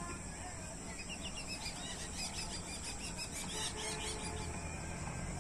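Birds chirping: a rapid run of short calls from about a second in, fading near the end, over a steady high hiss.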